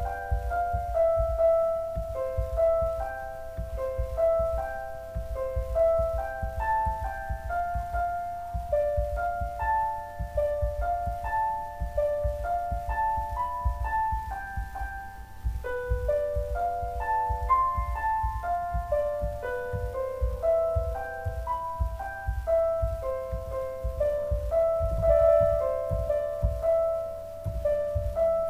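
Background piano music: a steady flowing melody of single notes over a low accompaniment.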